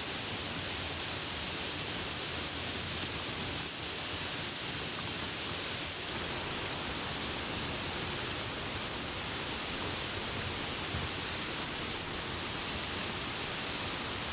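Steady, even rain falling, a continuous hiss with no thunder.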